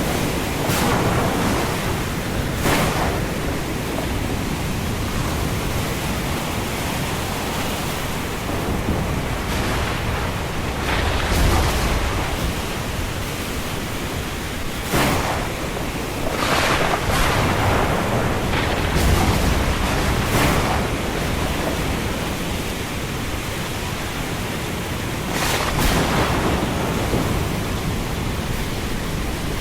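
Thunderstorm: a steady hiss of wind and rain that swells every few seconds, with deep thunder rumbling, loudest about a third of the way in and again past the middle.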